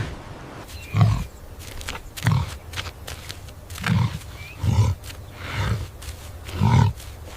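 A large animal giving a series of short, low grunting calls, about six of them, roughly a second apart.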